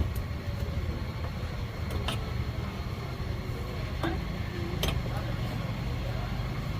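A steady low rumble of background noise at a street-food stall, with faint voices in it and a few sharp knocks about two, four and five seconds in.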